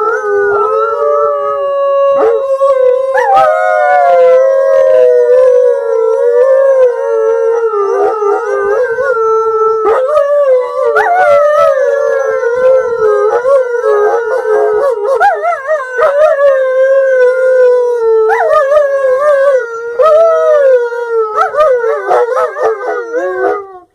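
A pack of wolves howling in chorus: several long, overlapping howls at different pitches sliding slowly up and down. Near the end the howls turn choppier and more broken.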